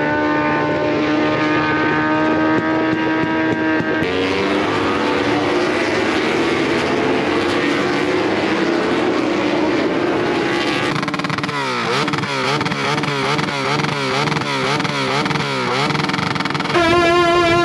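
Motorcycle engines revving: first one held at steady revs, then several rising and falling, then one revved up and down in quick repeated blips, under two a second. Brass-band music comes in near the end.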